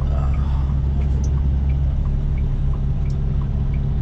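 Semi truck's diesel engine running with a steady low hum heard inside the cab, while the turn-signal relay clicks in an even tick-tock about three times a second.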